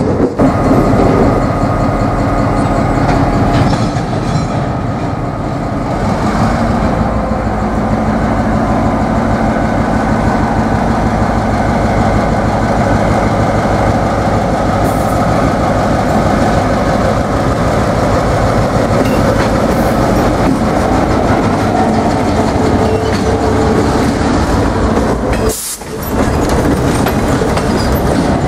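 Diesel-electric locomotive running with its train, the engine humming steadily under the clatter of steel wheels on the rails. The sound breaks off briefly about 26 seconds in.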